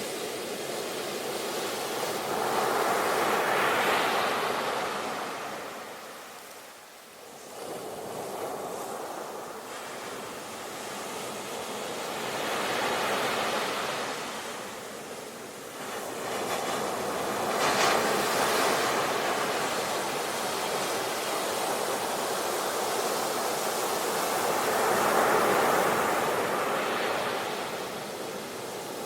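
Sea waves breaking and washing on the shore, a steady hiss of surf that swells and falls back in slow surges every several seconds.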